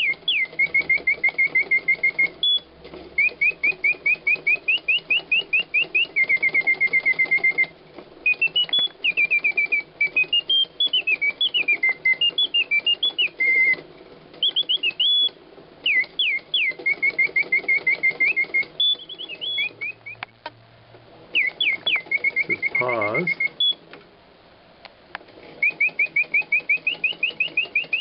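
Griesbaum singing-bird automaton whistling: its bellows-blown bird whistle gives phrases of quick rising chirps that run into fast trills of repeated notes, with short pauses between phrases.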